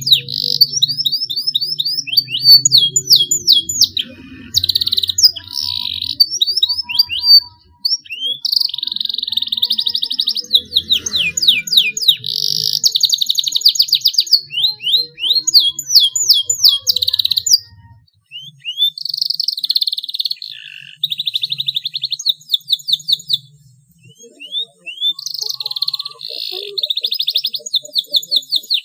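A young canary singing its learning song: runs of quick downward-sweeping notes alternating with fast, rolling trills, in phrases broken by short pauses about 8, 18 and 24 seconds in. The long rolls mark a juvenile canary beginning to roll its song.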